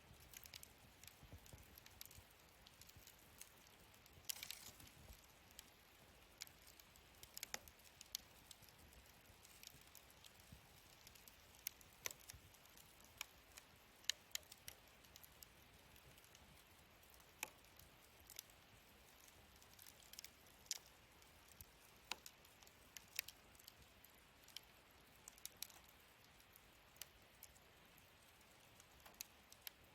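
Wood fire burning in a fire stand, crackling softly: irregular sharp pops and snaps, a few louder ones, over a faint steady hiss.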